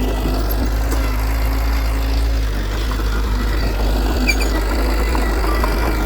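Heavy diesel engine of earthmoving equipment running steadily, deep and continuous, with a few faint knocks.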